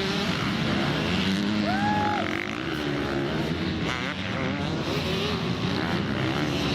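Several motocross bikes running at once, their engines revving up and down with pitches overlapping, rising and falling.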